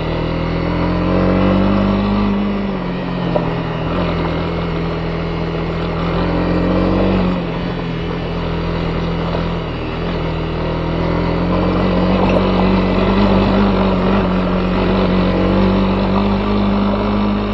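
Honda CB250R single-cylinder four-stroke engine running under way, its revs rising and falling with the throttle.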